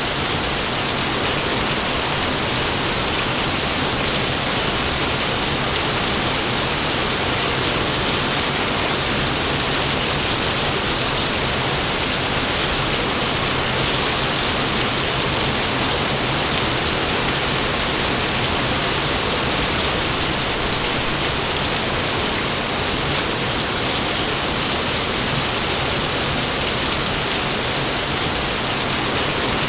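Heavy rain falling steadily, a dense even hiss with no thunder clap.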